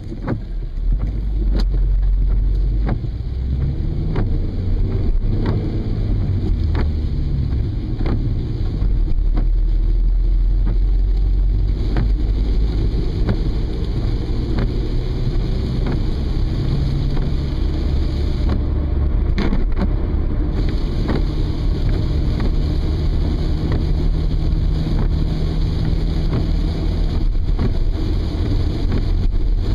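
Car driving in the rain, heard from inside the cabin: a steady low engine and road rumble that shifts slightly in pitch, with sharp ticks recurring roughly once a second.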